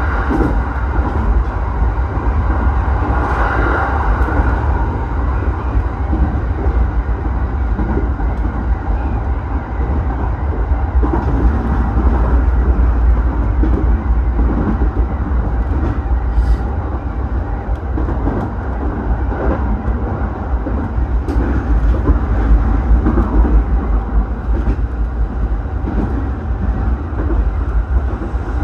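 Electric commuter train on the JR Kawagoe Line running along the track: a steady low rumble with wheel-on-rail noise and a few faint clicks.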